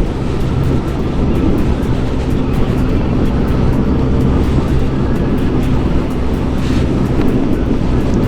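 Yamaha Aerox scooter's single-cylinder engine running steadily while riding at speed, with road and wind noise.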